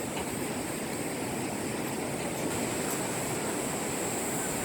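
Steady rushing noise of the Hantan River flowing through the canyon below, with a thin, steady high hiss over it.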